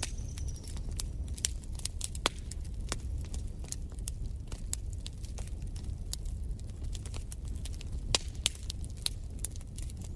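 Wood fire burning in a fireplace, crackling with irregular sharp pops over a low steady rumble. The strongest pops come a little after two seconds in and around eight seconds in, and a faint high whistle sounds briefly at the very start.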